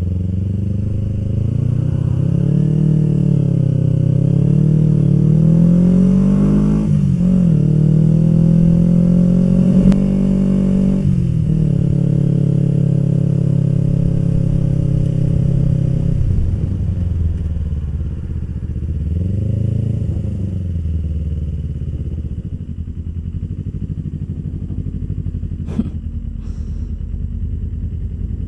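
Kawasaki Ninja motorcycle engine on the move, its pitch climbing and dropping sharply at gear changes, holding steady, then easing off and settling to a low, slow note in the last few seconds.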